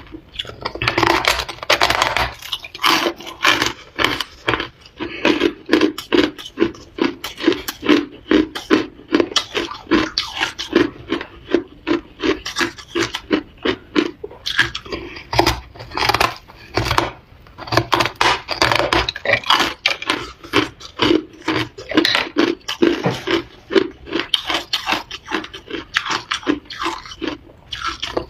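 Ice being bitten and chewed close to the microphone: rapid, continuous crunching, a few crunches a second, with short pauses between runs.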